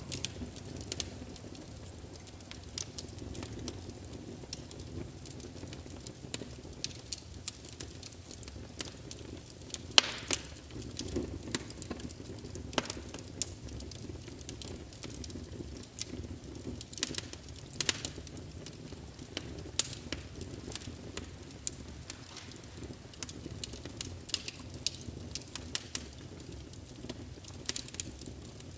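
Wood fire crackling: irregular sharp snaps and pops over a low steady rustle, with a few louder pops, the loudest about ten seconds in.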